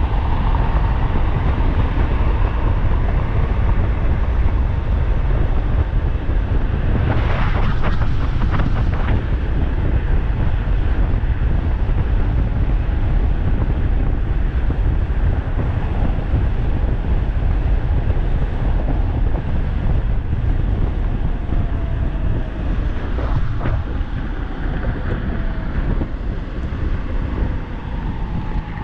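Wind buffeting the microphone on an e-bike ridden at speed, a steady heavy rumble. A brief louder rush with a few sharp ticks comes about seven seconds in, and a faint whine falls slowly in pitch later on.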